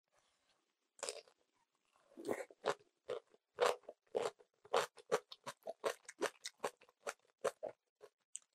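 Close-up crunching of a mouthful of napa cabbage kimchi being chewed: a first bite about a second in, then a quick, even run of crisp crunches, about three a second.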